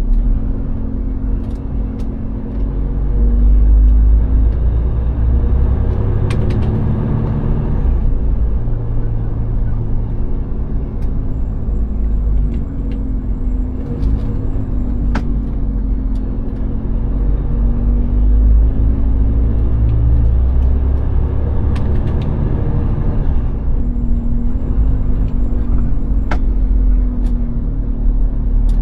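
Heavy timber truck's diesel engine running on the move: a steady low drone whose pitch drifts up and down with engine speed, with a few sharp clicks.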